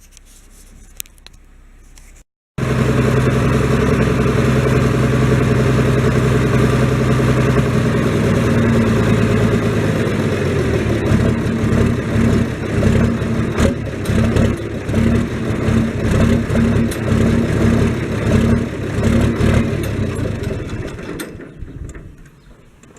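Small tractor engine running steadily, then with an uneven pulsing from about ten seconds in, fading out near the end.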